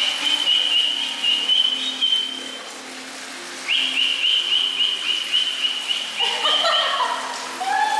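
A bird calling in two runs of quick, repeated high whistled notes, about four a second. Each run opens with a rising note, and the second starts a little under four seconds in.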